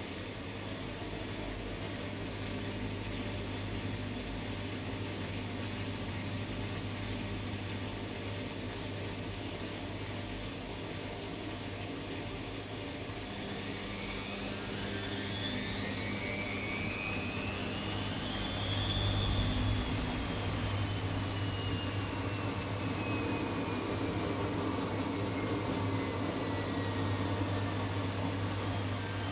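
Atlant 70C1010 washing machine spinning: a steady low hum. About halfway in, a motor whine climbs steeply in pitch as the drum speeds up, peaks about two-thirds of the way through, then slowly sinks.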